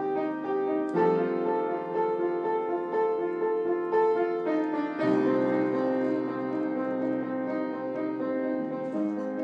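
Background piano music: a slow run of held notes and chords, with new chords struck about a second in and again about five seconds in.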